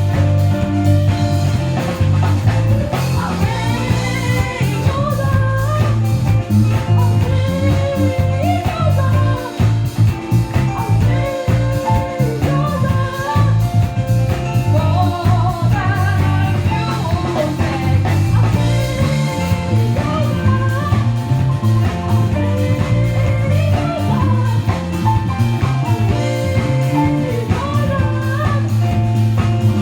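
A band playing a song, with a singing voice, guitar and drums over a steady bass line.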